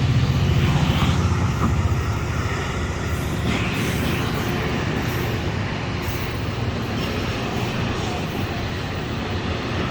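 MARC commuter train running through the station: a steady rumble of locomotive and rolling cars on the rails, easing off over the first couple of seconds and then holding level.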